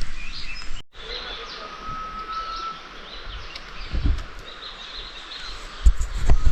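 Outdoor background noise with faint bird calls, among them a thin, level whistle lasting about a second, plus a few low thumps near the end.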